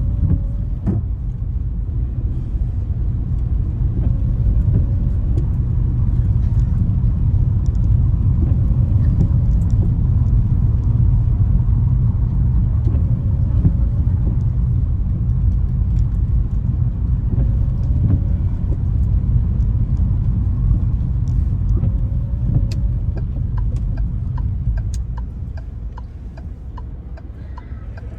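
Car driving on a wet road: a steady low rumble of engine and tyre noise that gets quieter in the last few seconds. Near the end there is an even ticking, like a turn-signal indicator.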